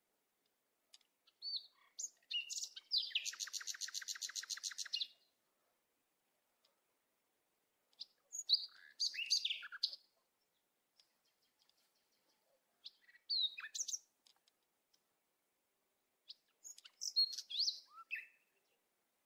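Small birds chirping in short, scattered high calls, with a fast rattling trill of about nine pulses a second lasting some two seconds, about three seconds in.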